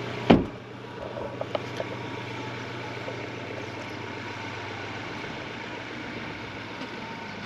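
A vehicle's engine running steadily with a low hum, with one sharp thump just after the start.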